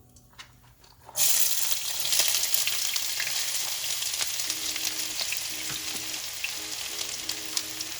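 Chopped celery dropped into hot oil in a pan: a loud sizzle starts suddenly about a second in, then goes on steadily frying with many small crackles, easing slightly.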